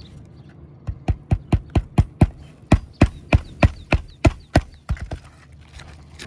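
Hammer driving roofing nails into asphalt shingles: a quick run of sharp strikes, about four a second, starting about a second in and stopping about five seconds in.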